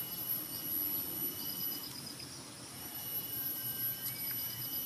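Forest insects calling: a chorus of steady, high-pitched trills and buzzes, one of them pulsing rapidly, over low background noise.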